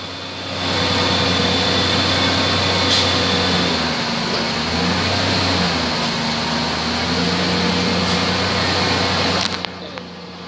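1999 Ford Ranger engine running with the transmission in gear and the driveshaft turning, a steady drone with a rushing mechanical noise over it. The engine note shifts about four seconds in and again around seven seconds, and the sound falls off near the end.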